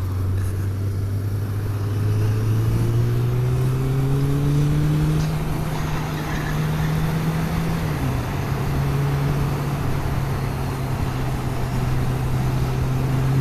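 Motorcycle engine running under way with wind rush, its pitch rising steadily for a few seconds as it accelerates, then dropping a step about eight seconds in and holding steady.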